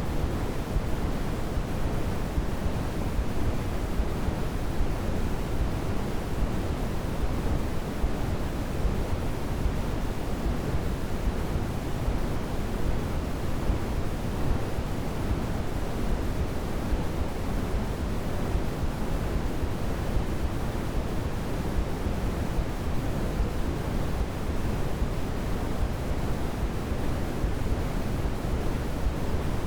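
Steady synthetic white-noise sleep sound, a constant hiss heavier in the low end, like pink noise, with no changes.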